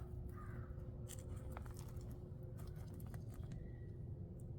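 Faint rustling and a few scattered sharp clicks and crackles, like footsteps and handling over dry ground debris, over a steady low rumble of wind on the microphone.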